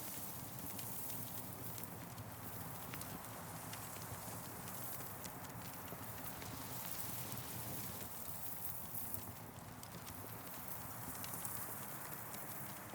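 Campfire crackling: frequent small, irregular pops over a steady hiss.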